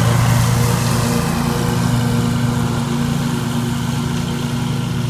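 Scag Tiger Cat II zero-turn mower running steadily, its engine humming over the rush of the cutting deck as it mulches leaves, growing slightly fainter as it moves off.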